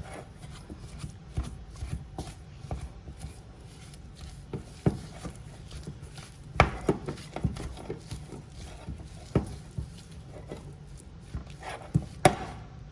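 A stiff cream cheese filling being stirred by hand in a bowl, with irregular clicks and knocks of the utensil against the bowl, the loudest about six and a half and twelve seconds in.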